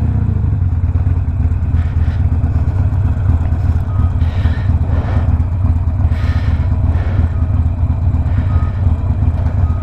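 Harley-Davidson Sportster Iron 1200's air-cooled V-twin, stage-one tuned with a Two Brothers 2-into-1 exhaust, running steadily at low revs in slow traffic: a constant deep rumble.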